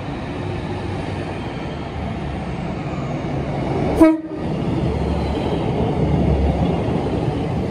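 Northern Class 150 diesel multiple unit 150220 running into the platform, its rumble growing heavier as the cars draw level. A short, loud horn toot sounds about four seconds in.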